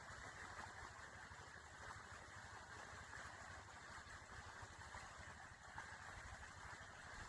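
Near silence: faint, steady background noise with a light low rumble.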